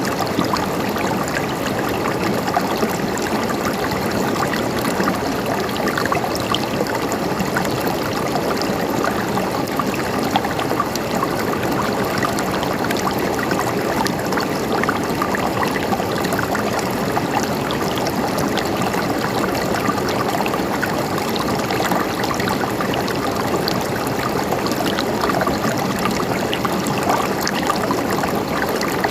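River water flowing steadily over rocks, a continuous rushing and gurgling with small splashes throughout.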